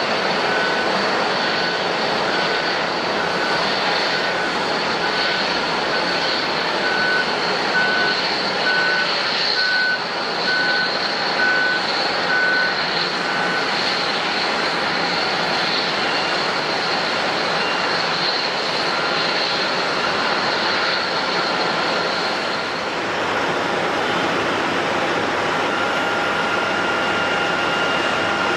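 Jet airliner engines running with a steady rushing noise and a high whine that stops about two-thirds of the way through. Over the first half, an airport ground vehicle's reversing alarm beeps about twice a second, then stops.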